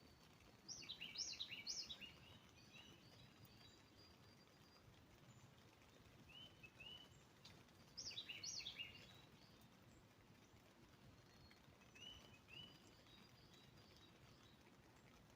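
Faint songbird song: two bursts of quick, steeply falling whistled notes about seven seconds apart, with softer two-note phrases between them, over a quiet background.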